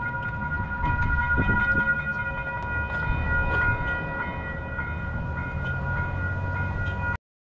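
Train rolling past with a low rumble and scattered clicks from the wheels, over a steady high ringing of several tones at once. The sound cuts off abruptly near the end.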